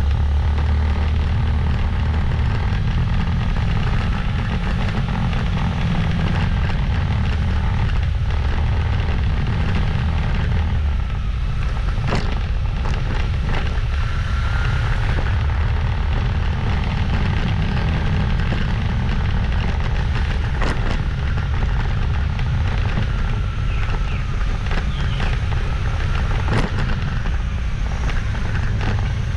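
Motorbike being ridden: a steady low rumble of engine and wind noise, with a few sharp clicks.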